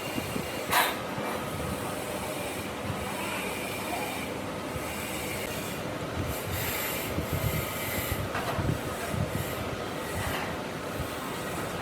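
Power woodworking tool running steadily with abrasive rubbing and scraping against wood, a short sharp scrape about a second in.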